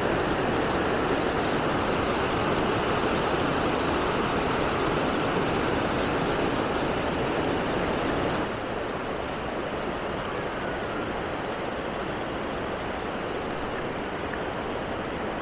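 Waterfall water rushing in a steady, even wash, from two large falls. About halfway through it turns a little quieter and duller.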